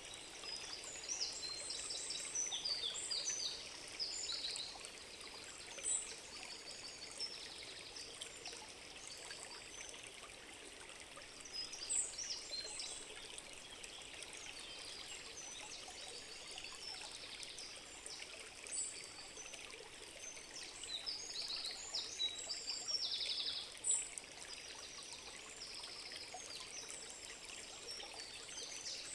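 Forest ambience: a stream running steadily, with several small birds singing over it in short bursts of high chirps and quick trills.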